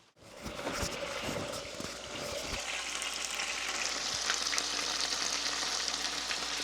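Food sizzling in a frying pan, a steady high hiss that builds up and settles about two and a half seconds in, with a few knocks at the start.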